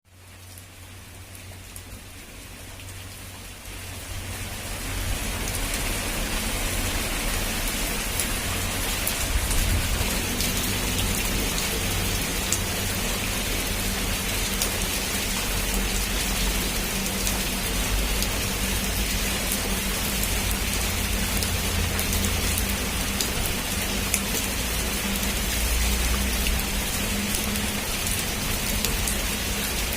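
Heavy rain falling on a rooftop, a dense steady hiss flecked with individual drop impacts, with a low rumble beneath. It fades in over the first few seconds, then holds steady.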